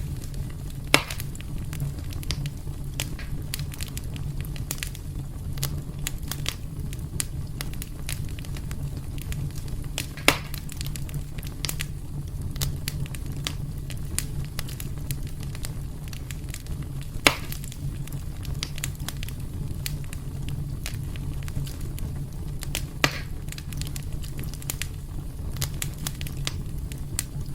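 Wood fire burning in a fireplace: a steady low rumble of flames under constant small crackles, with four louder sharp pops spread through the stretch.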